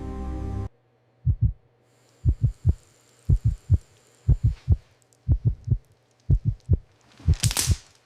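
Deep heartbeat sound effect: low thuds in quick groups of two or three, about once a second. A low music drone cuts off before a second in, and a swelling whoosh comes near the end.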